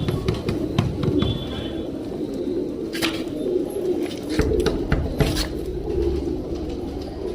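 A group of Allahabadi pigeons cooing in a continuous, wavering low murmur, with a few sharp clicks about three and five seconds in.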